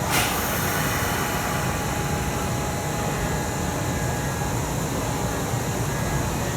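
Steady hum of an electric train at a station platform, with a short hiss right at the start.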